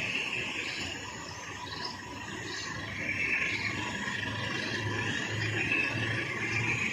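Diesel locomotive engine running, a low steady hum that strengthens about four and a half seconds in, over steady high chirping of insects.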